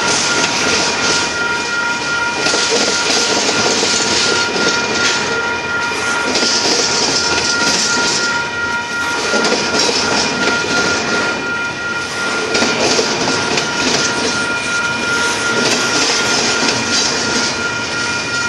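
Double-stack container well cars of a freight train rolling past close by: steady wheel-on-rail noise and hiss that swells and fades every few seconds, with a thin high ringing tone held over it.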